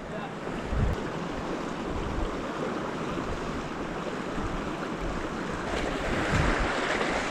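Steady rushing of a small brook's water, louder near the end, with wind buffeting the microphone.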